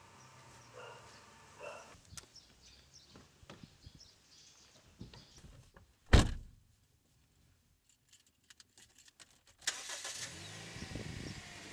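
A single loud thump about six seconds in, a run of faint clicks, then a car engine starting and running near the end.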